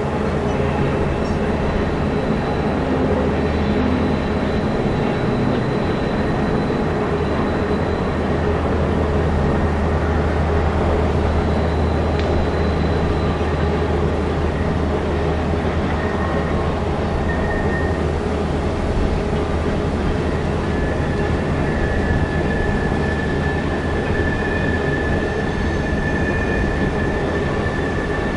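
A freight train rolling past close by: a steady rumble of wheels on the rails under a low diesel locomotive hum. A thin, high steel-wheel squeal comes in about two-thirds of the way through.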